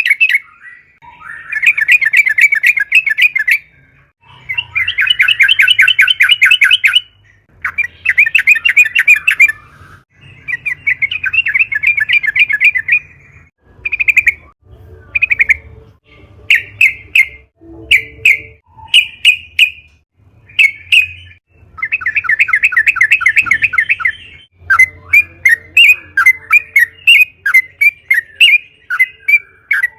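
Yellow-vented bulbul (trucukan) song: loud, rapid chattering trills of about two seconds each, repeated with short pauses between them. In the middle stretch these give way to a run of short separate notes, and choppier bursts come near the end.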